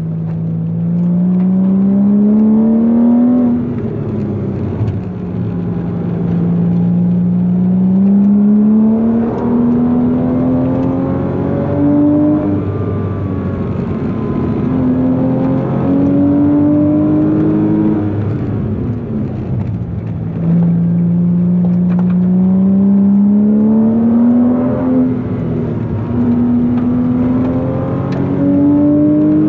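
Porsche Boxster S 3.2-litre six-cylinder engine being driven hard, pulling up through the revs with its pitch climbing over a couple of seconds and then falling back, again and again as it changes gear. It is running healthily.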